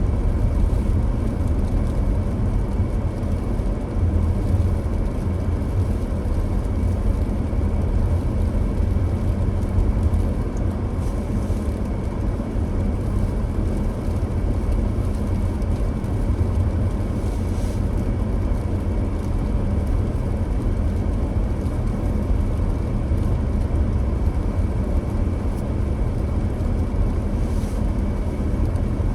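Steady low rumble of a car driving: engine and tyre noise, with faint brief hisses a few times.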